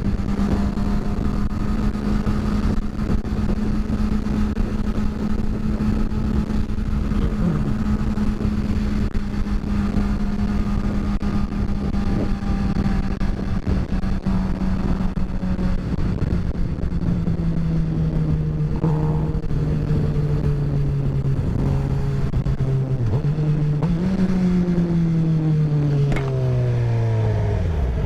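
Motorcycle engine running at a steady cruising speed over wind and road noise. From about 17 s in the engine note steps down as the bike slows, it revs up briefly around 24 s, then falls away steadily as the bike slows almost to idle near the end.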